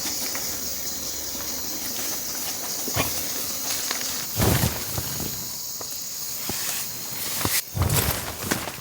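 Steady high-pitched insect chirring from the bush, with a few dull thumps, the loudest about four and a half and eight seconds in.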